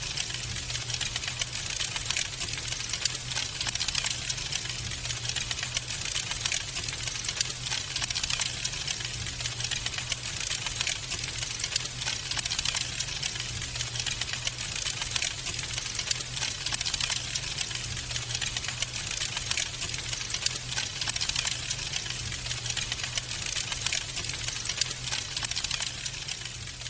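Wood fire crackling steadily with dense, rapid pops and snaps, over a low steady hum.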